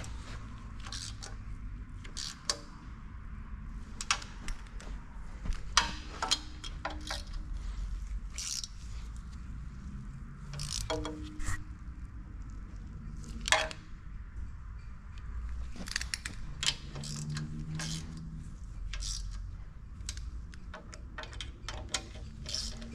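Hand tools and bolts clicking and clinking against metal engine parts in irregular bursts, with the odd louder knock, as bolts are started on a part being fitted with a cork gasket.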